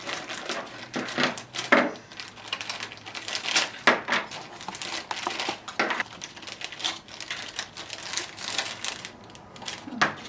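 Toy helicopter kit parts and their plastic packaging being handled and set down, making irregular clicks, taps and rustles.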